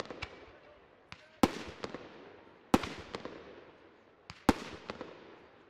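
Fireworks bursting overhead: three loud bangs about a second and a half apart, each followed by a fading echo, with smaller cracks in between.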